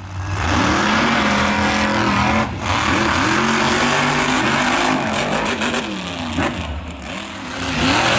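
Monster truck engine revving hard, its pitch climbing and dropping again and again as the throttle is worked, with a brief drop-off about two and a half seconds in.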